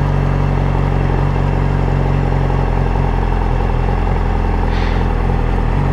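2009 Yamaha R6's inline-four engine, fitted with an M4 aftermarket exhaust, running steadily near idle with no throttle while the clutch is let out in first gear and the bike pulls away.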